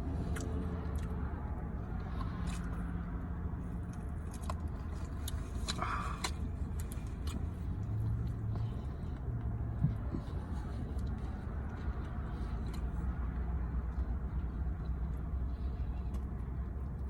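A steady low mechanical hum, with scattered small clicks and taps and a brief rustle about six seconds in.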